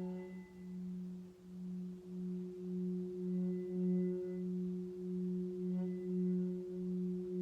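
Singing bowls sustaining two steady tones, a low hum that swells and fades in a steady pulse and a quieter higher tone above it.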